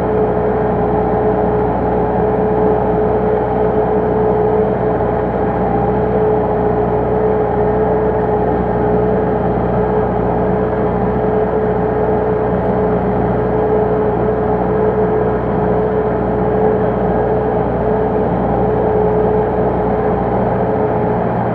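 MTZ (Belarus) tractor's four-cylinder diesel engine running steadily at constant speed under ploughing load, with a steady whine over the low engine rumble.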